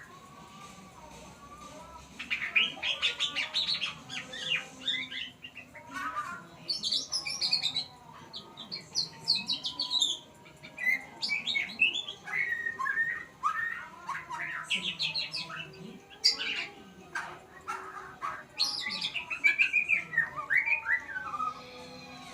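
A murai songbird singing a long run of varied whistled and chattering phrases with short pauses between them. It is a tutor recording of the kind played to young birds so they learn the song.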